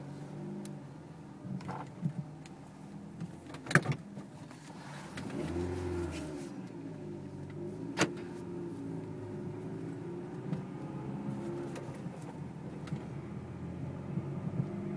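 Chevrolet Cobalt SS driving, heard from inside the cabin: steady engine and road drone with a few sharp knocks, the loudest about four and eight seconds in. It is the knocking from the passenger-side front end that the owner is chasing and thinks may be a flat spot on a tyre.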